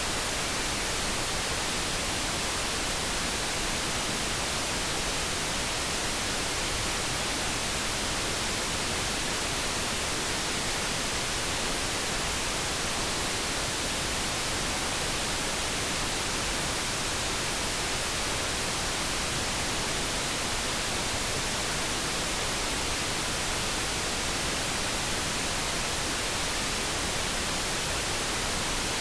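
Steady generated noise, an even hiss with no changes.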